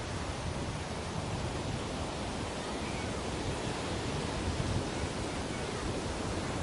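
Ocean surf washing onto a beach: a steady rush of wave noise with gentle swells and no distinct breaks.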